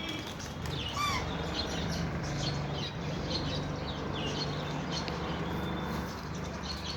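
Many small birds chirping in short, overlapping calls, with one louder arching call about a second in, over a steady low hum.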